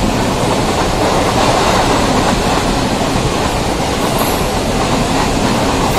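Mumbai suburban local train running, a steady, loud noise of the wheels on the rails and the moving coach.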